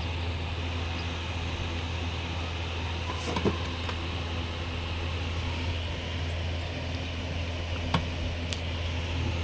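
Steady low mechanical hum with a couple of light clicks, one about three and a half seconds in and one near eight seconds.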